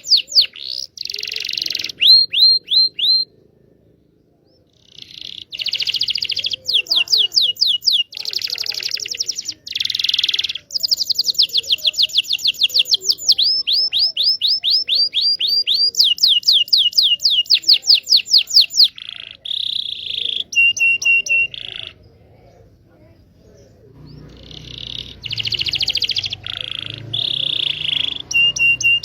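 Indonesian local canary singing: long phrases of fast trills made of repeated sweeping notes, with buzzy rolls between them and a couple of short pauses.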